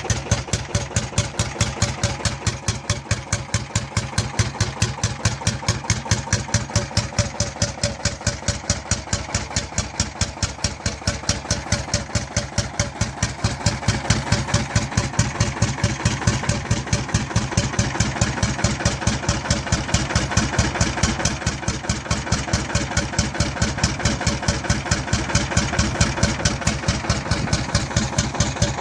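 Lanz Bulldog D3506's single-cylinder two-stroke hot-bulb engine running, with its characteristic rapid, evenly spaced thudding beats.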